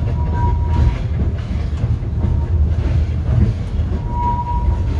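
Disneyland Railroad passenger carriage running along the track: a steady low rumble of the wheels on the rails, with a thin high tone coming in briefly near the start and again near the end.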